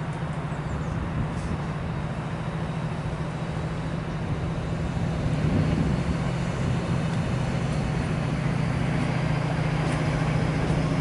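Diesel train engine running with a steady low drone that grows slightly louder.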